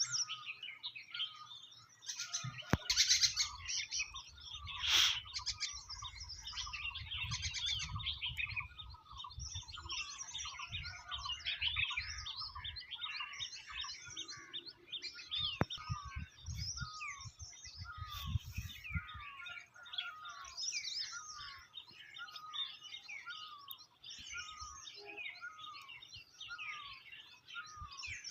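A dense chorus of many small songbirds chirping and tweeting, short quick falling notes overlapping one another throughout. A low rumble runs underneath for much of the first two-thirds.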